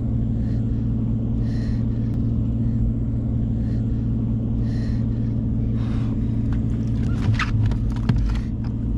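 Small outboard motor running at a steady idle-like hum. In the last few seconds there are irregular clicks and splashes.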